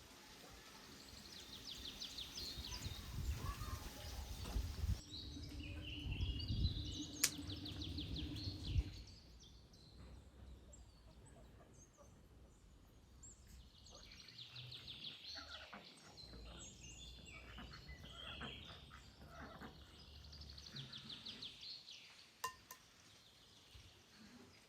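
Small songbirds chirping and trilling in repeated quick phrases, coming and going several times. Low rumbling noise sits under the first third, with a couple of sharp clicks.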